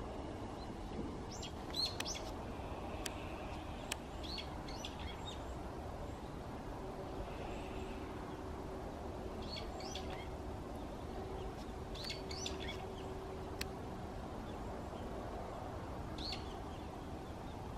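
Small birds chirping in short clusters of quick high notes, repeated every few seconds over a steady low background noise, with a few sharp clicks in between.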